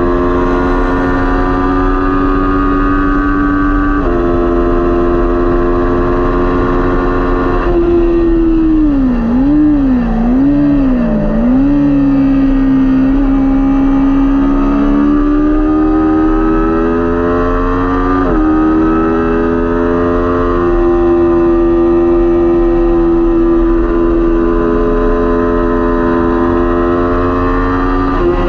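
Kawasaki Ninja 400 parallel-twin racing motorcycle engine at race pace, heard onboard: held at high revs with gear changes about 4 and 8 seconds in, then revs swinging down and up three times as the bike slows for a corner, before climbing again with another shift around 18 seconds and staying high.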